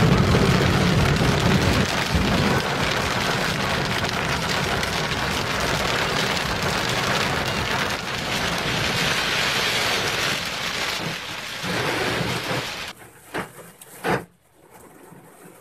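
Heavy rain pouring down in a storm, a dense steady hiss that cuts off suddenly about 13 seconds in, followed by a few short knocks.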